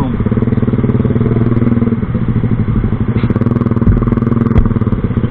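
Engine running through a loud exhaust pipe, idling steadily with rapid, even firing pulses. There are a couple of brief thumps about four seconds in.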